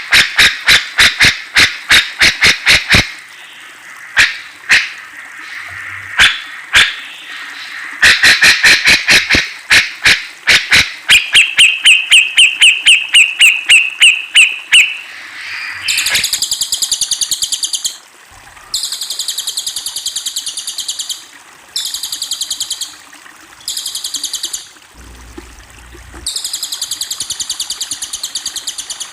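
Cucak jenggot (grey-cheeked bulbul) calling: rapid runs of sharp clicky notes, then a run of clearer whistled notes, then from about the middle on, repeated harsh buzzy rattles each a second or more long.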